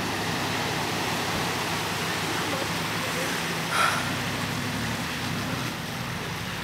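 A four-wheel-drive's engine running steadily at low revs under an even rush of water noise, with one brief higher-pitched sound just before four seconds in.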